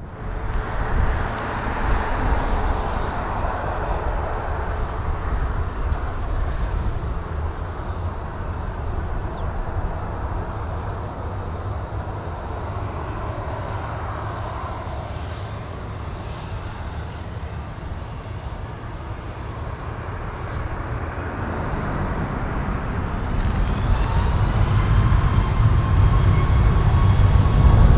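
Jet airliner engines heard outdoors as a steady rushing roar with a deep rumble. Over the last few seconds it grows louder, and a whine rises out of it.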